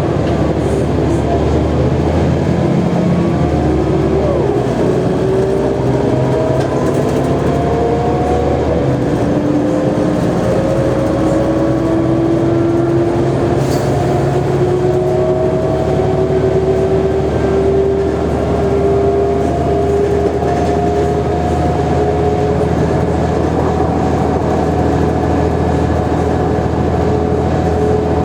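Mercedes-Benz O345G articulated bus under way: a steady low engine drone with a whine from the drivetrain that climbs steadily for about the first fourteen seconds, then levels off and holds almost steady.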